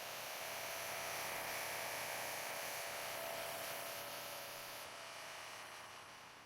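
A steady hiss with a faint hum in it, easing off slightly near the end.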